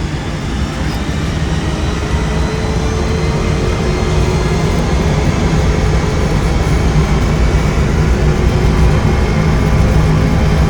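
Boeing 747SP's four jet engines spooling up to takeoff thrust with the rumble of the takeoff roll, heard from inside the aircraft; the noise grows steadily louder.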